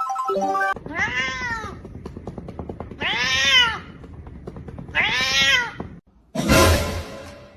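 A domestic cat meowing three times, about two seconds apart, each call rising and then falling in pitch. Near the end comes a short, loud noisy burst.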